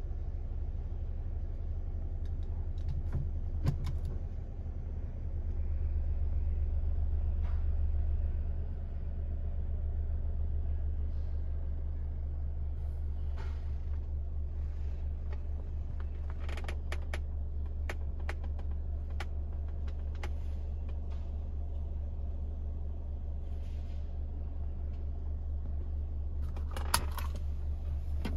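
Dodge Dart's 1.4-litre turbocharged four-cylinder engine idling, heard from inside the cabin as a steady low hum that swells a little for a few seconds about five seconds in. A few light clicks now and then.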